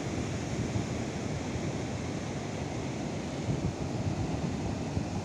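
Steady rush of sea surf, with wind blowing on the microphone.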